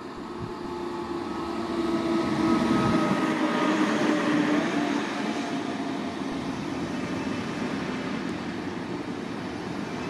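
Electric train passing on the line: it grows louder over the first couple of seconds, with a whine from its drive that fades and dips slightly in pitch as it goes by. After that comes a steady rolling noise of wheels on the rails.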